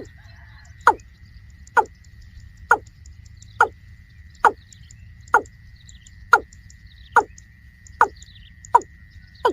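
A rail calling over and over, a short call falling in pitch about once a second, eleven or so times, over a steady high thin whine.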